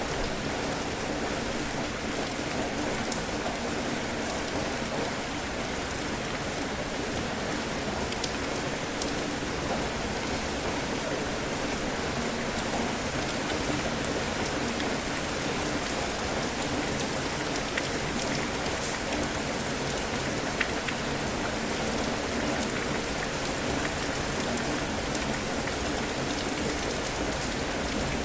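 Steady rain falling on a surface, an even hiss with a few scattered louder drops.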